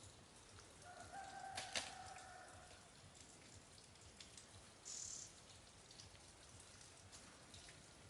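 A faint, distant bird call held for about two seconds, starting about a second in, with a sharp click partway through. Faint scattered ticks throughout and a brief hiss around five seconds in.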